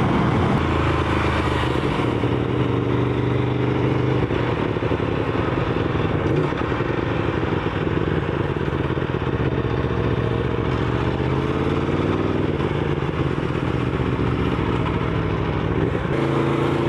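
Aprilia RSV4 RF's V4 engine running under way at a steady cruise, its note rising and dipping gently a few times, with constant wind noise on the microphone.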